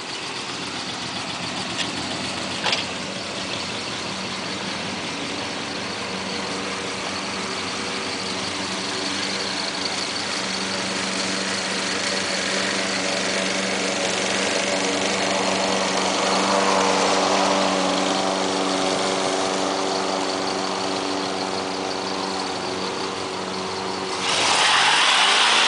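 Chevrolet 350 small-block V8 idling steadily, growing slowly louder, with two sharp clicks about two and three seconds in. Near the end it suddenly gets louder and hissier.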